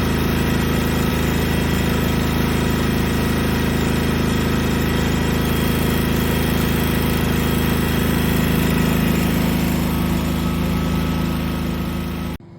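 An engine idling steadily and loudly, close by, with a steady low hum; it cuts off abruptly near the end.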